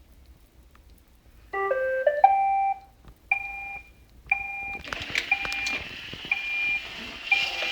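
iRobot Roomba robot vacuum playing its short rising electronic start-up tune, then two beeps. About five seconds in its vacuum motor and brushes start, with a half-second beep repeating about once a second.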